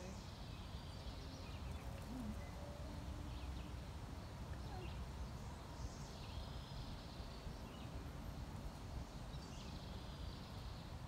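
Quiet outdoor ambience: a bird sings short phrases in the background, three times, over a steady low rumble.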